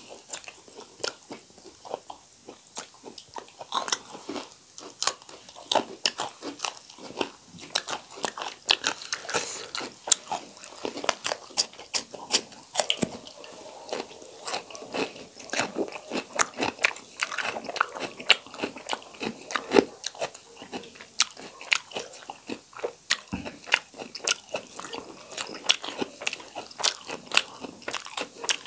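People chewing and biting into fried whole chicken with green chillies: dense, irregular sharp crunches and wet mouth clicks.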